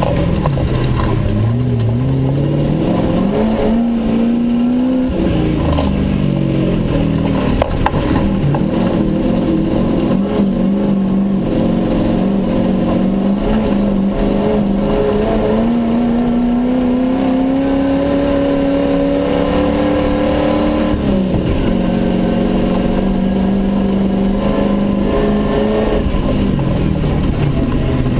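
Rally off-road vehicle's engine heard from inside the cabin while driving hard: its pitch climbs under acceleration, holds, then falls sharply about two-thirds through and again near the end before rising once more.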